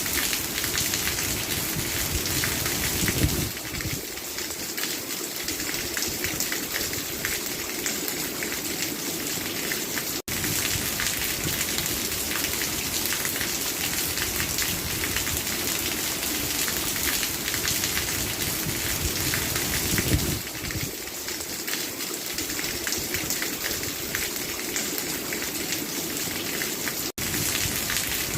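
Steady, dense rainfall pattering without a break, apart from two momentary dropouts, one about a third of the way in and one near the end.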